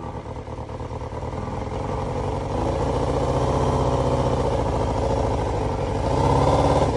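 Honda Jade 250's four-cylinder engine running and being revved, building in level over the first few seconds and strongest near the end before dropping back.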